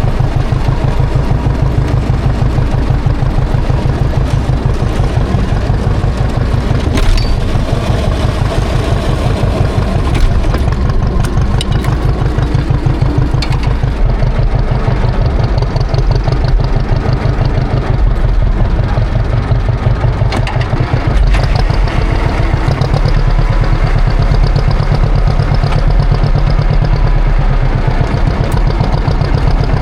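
Classic John Deere tractor engine running steadily during snow plowing, with a few brief knocks along the way.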